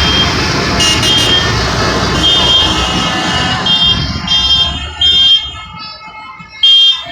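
Tractor engines rumbling past while horns toot again and again. The engine noise dies away about six seconds in, and two loud, short horn blasts follow near the end.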